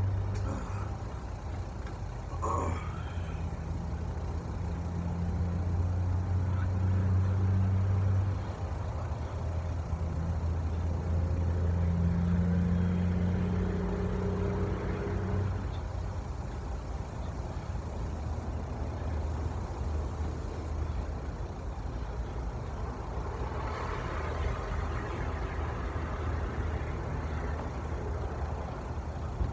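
Truck engine running steadily with a low hum that swells and shifts in pitch a few times before settling.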